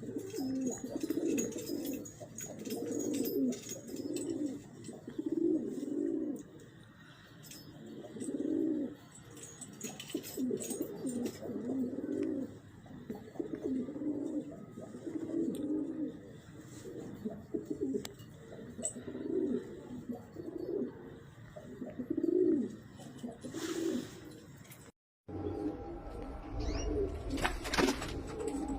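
Domestic pigeons cooing over and over, in low repeated phrases about a second or two apart. Near the end there is a short break, followed by a low rumble.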